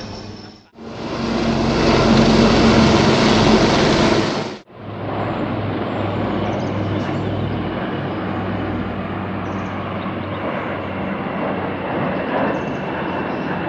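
Helicopter engine and rotor noise: a loud, steady rushing sound with a low hum, in three clips joined by sudden cuts about a second and about four and a half seconds in.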